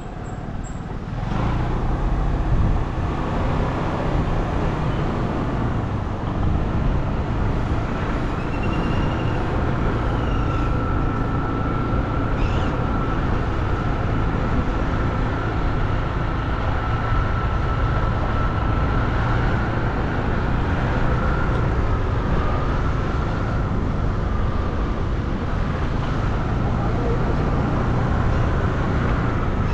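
Motorbike on the move along a road: a steady engine and road rumble mixed with wind noise, with a faint steady whine in the later part.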